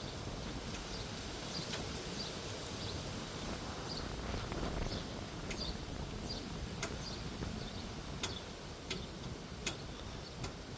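Outdoor ambience: a steady low rumble of wind on the microphone, with short high bird chirps every second or so and a few sharp clicks near the end.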